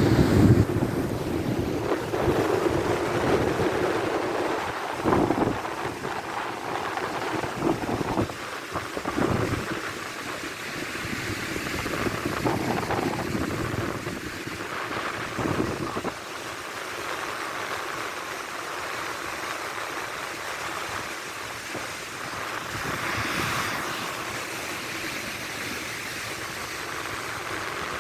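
Sea surf washing in, with wind buffeting the microphone in gusts during the first half, then a steadier, quieter wash of waves.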